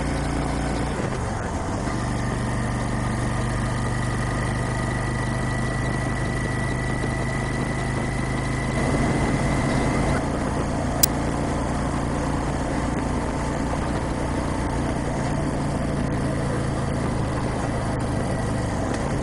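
Motorcycle engine running steadily, with a brief dip and rise in engine pitch about a second in and again near the end. A single sharp click about eleven seconds in.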